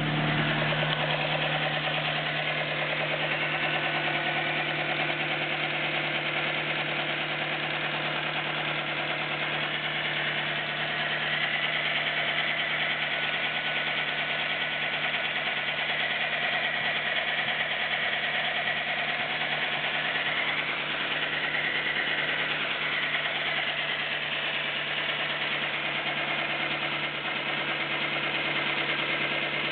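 Nissan Micra 1.0 16V four-cylinder engine running steadily at idle with a fast valve tapping. Its drive belts have been tightened, and the owner takes the tapping that remains for valve noise.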